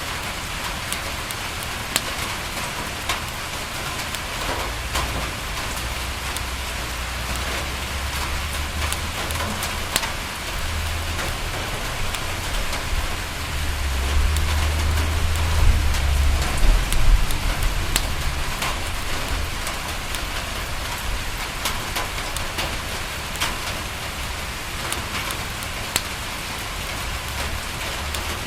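Steady rain falling on a window, a continuous hiss dotted with scattered sharp ticks. A low rumble swells about halfway through and fades again.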